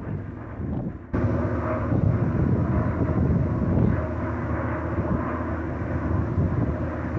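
A steady engine drone that starts abruptly about a second in.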